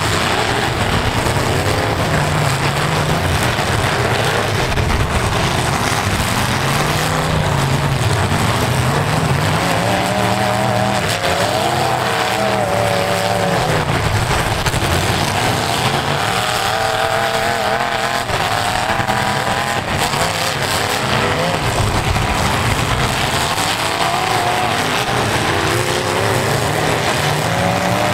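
Several V8 engines of full-size demolition derby cars revving hard, their pitch repeatedly rising and falling as the cars accelerate, reverse and shove into each other.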